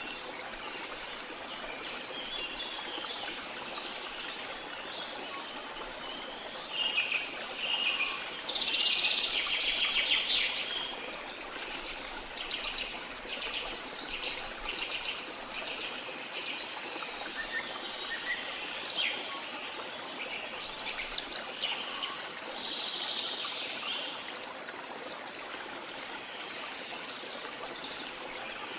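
Steady rush of a waterfall with several birds singing over it: chirps and fast trills, loudest about a quarter of the way in.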